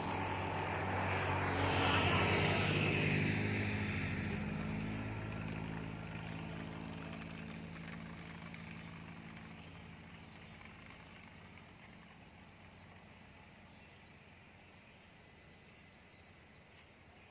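A motor engine passing close by, loudest about two seconds in, then fading steadily into the distance.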